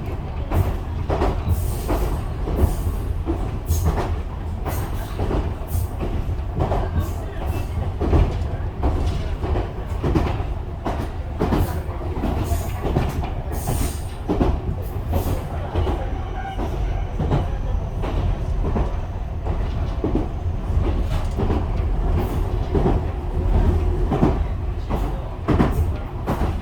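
Ichibata Electric Railway train running, heard from inside the carriage: a steady low rumble with wheels clacking irregularly over rail joints, and a faint high steady whine for a few seconds past the middle.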